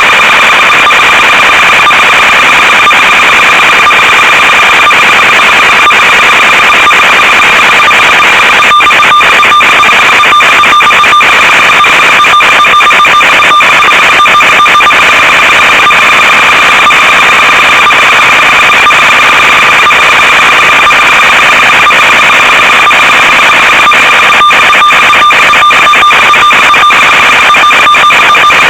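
Loud steady electrical buzz at one fixed pitch with its overtones, over a hiss and broken by crackles of static, typical of the audio track of an analog FPV video recording.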